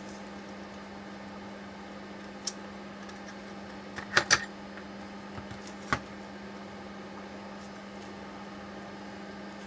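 A few sharp clicks and knocks of parts or tools being handled, the loudest a close pair about four seconds in, over a steady low electrical hum.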